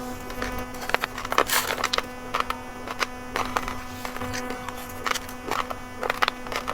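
Crunching of raw uncooked rice being chewed: many sharp, irregular crackles over a steady low electrical hum.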